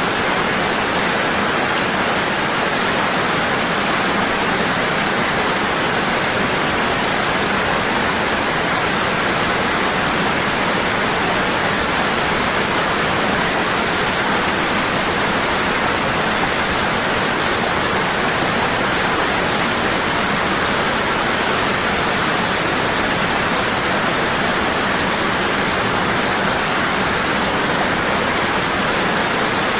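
Waterfall: water falling heavily and steadily, a constant rushing with no changes.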